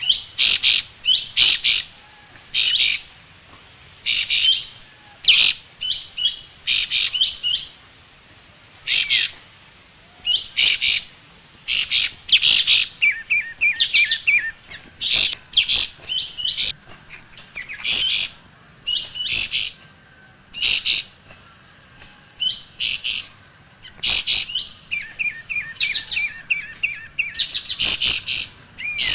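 Sooty-headed bulbul (kapas tembak) singing: short, rapid high-pitched chirping phrases, one every second or two. A few phrases run into quick lower trills.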